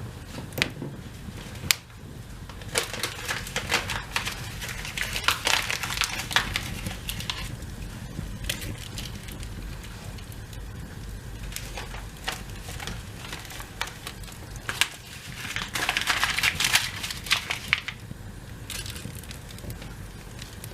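Paper and cardboard kindling in a fireplace crackling and crinkling, with scattered sharp snaps and two longer spells of dense crinkling, about three seconds in and again near sixteen seconds.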